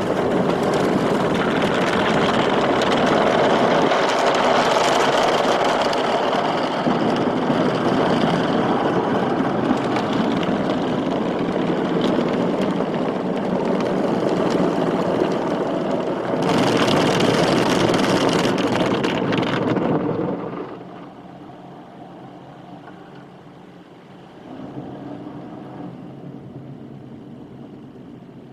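Automatic car wash running: a loud, steady rush of washing machinery and water, with a brighter hissing spell about 16 seconds in. It cuts off suddenly about 20 seconds in, leaving a much quieter low hum.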